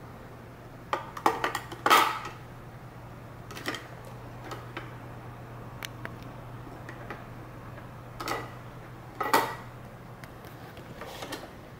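Scattered clicks and clatter of small hard objects being handled, loudest about two seconds in and again near nine seconds, over a steady low hum.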